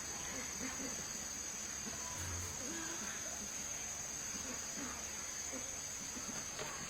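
Insects keeping up a steady high-pitched drone, with faint scattered short sounds underneath.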